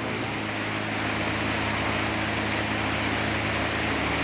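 HDL light truck's diesel engine running under load, trying to pull out of the mud: a steady low drone that grows a little louder about a second in.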